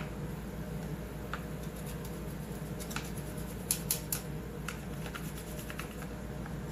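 Light scraping and scattered small clicks of a hand tool working caked dirt loose from chainsaw parts, with three sharp ticks in quick succession about halfway through, over a steady low hum.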